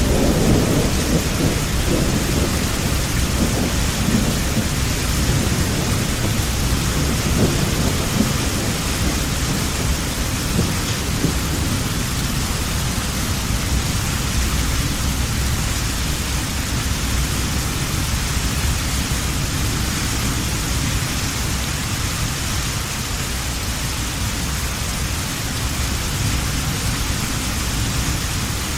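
Heavy rain falling in a steady hiss, with a low rumble of thunder rolling through the first several seconds and fading away.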